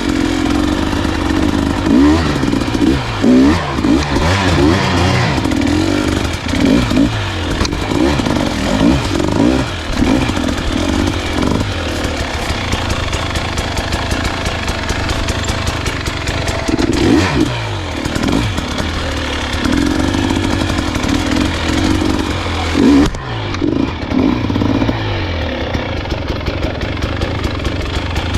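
Dirt bike engine running under changing throttle while being ridden along a rough trail, revving up and dropping back over and over.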